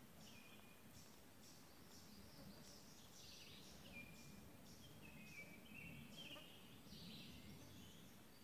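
Faint woodland birdsong: short high chirps repeated about twice a second, with a few brief whistled notes, over a low steady background hiss.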